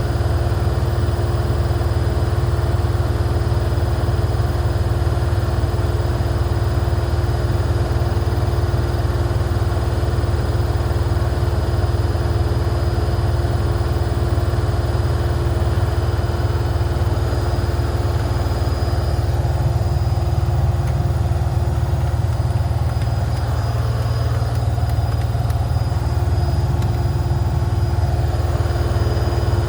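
Washing machine running at full speed with its door open: a loud, steady, deep drone with a constant hum tone over it.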